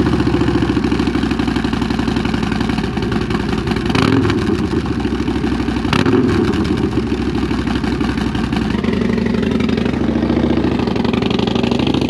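An old Harley-Davidson motorcycle engine idling just after a cold start, with two short louder moments about two seconds apart and a slight change in its note near the end.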